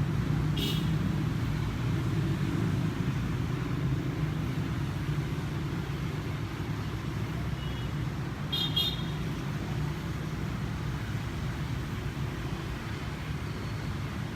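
Steady low rumble like passing road traffic, with two brief high-pitched chirps, one about a second in and another near nine seconds.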